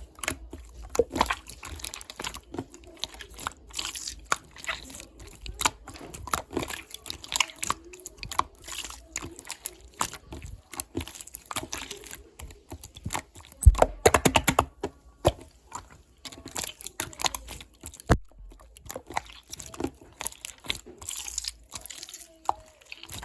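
Slime being squeezed and poked by hand, with a steady run of small crackling, popping clicks and a quick flurry of pops partway through.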